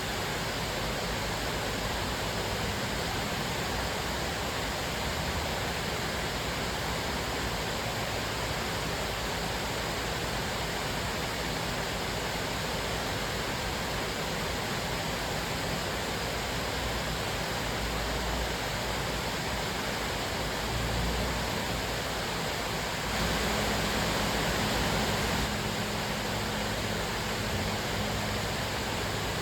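Cascading waterfall: a steady rush of falling water, briefly a little louder for a couple of seconds about two-thirds of the way through.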